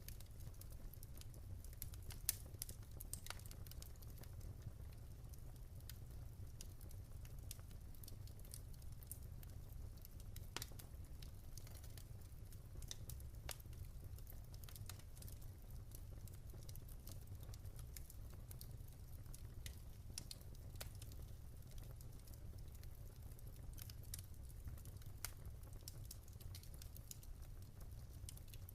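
Wood fire burning in a fireplace: irregular sharp crackles and pops over a steady low rumble, with one louder pop about two seconds in.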